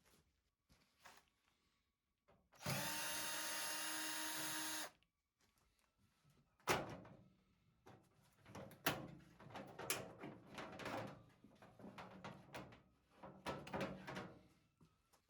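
Electric drill-driver running steadily for about two seconds, then a run of knocks and clatter.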